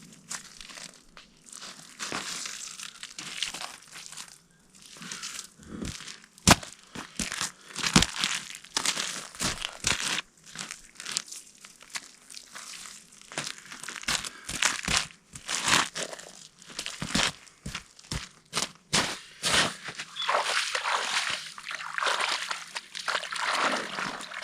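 Irregular crunching and crinkling, with scattered sharp knocks; the two loudest knocks come about six and a half and eight seconds in.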